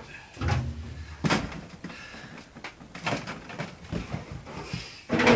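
Irregular knocks, bumps and clatter of things being handled and moved, with a low thud about half a second in.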